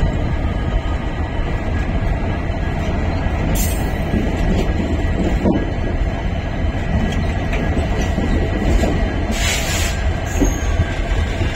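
Indian Railways passenger train of ICF coaches running on the rails, a steady, loud rumble of wheels and coaches, with two brief high hisses about three and a half and nine and a half seconds in.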